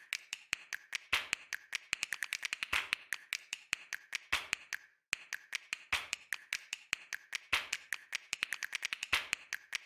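Keys being typed on a keyboard: quick, irregular clicks several a second, with a short pause about halfway through.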